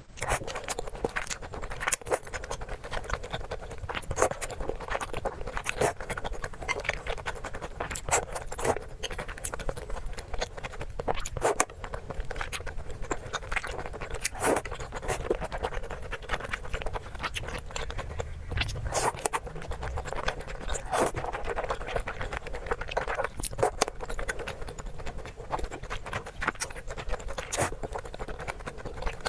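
Close-miked mukbang eating sounds: irregular crunches and sharp clicks of biting and chewing, with scraping in between, several a second and unevenly spaced.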